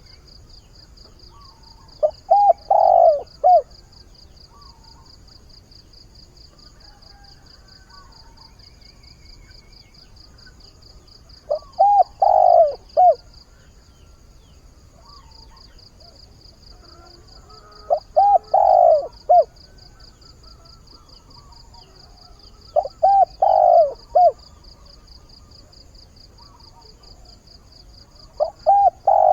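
Spotted dove (chim cu gáy) kept as a trapping decoy, cooing its territorial call to attract wild doves: a short phrase of several notes, repeated five times about every five to six seconds. A steady, rapidly pulsing high-pitched insect trill runs underneath and drops out briefly about halfway through.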